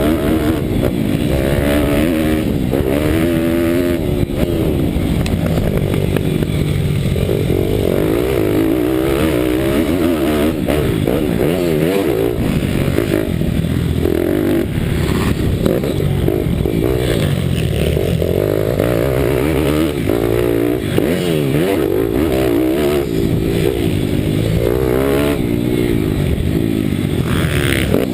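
Single-cylinder Daytona Anima 190 cc four-stroke engine of a Bucci Moto pit bike, racing: the engine note rises and falls again and again as it revs up, shifts and backs off.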